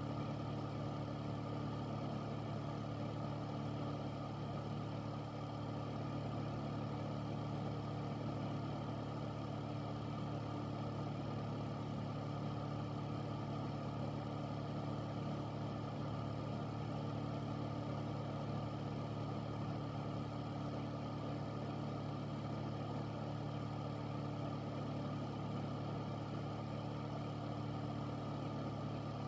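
Air filter's fan running steadily: a low hum with an even rush of air.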